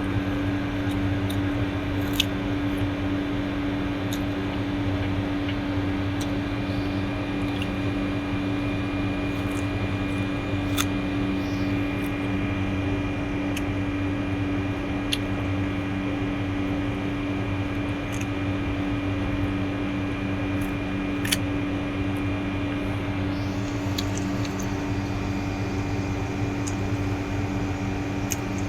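A steady low machine hum, even and unchanging, with a few faint clicks scattered through it.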